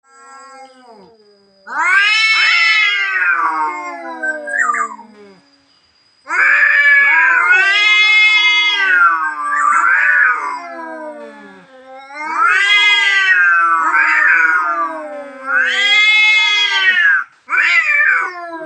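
A tomcat caterwauling: a run of long, drawn-out yowls that rise and fall in pitch, about seven in all, the first starting a couple of seconds in.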